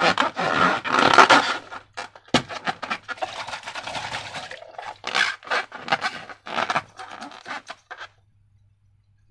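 Sticky slime being squished and worked by hand, a rapid run of wet squelching and clicking with one sharp click about two seconds in. It stops about eight seconds in.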